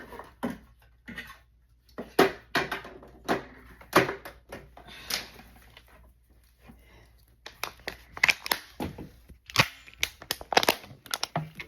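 Irregular rustling and crinkling with short, sharp knocks and clicks, as of things being handled and moved about.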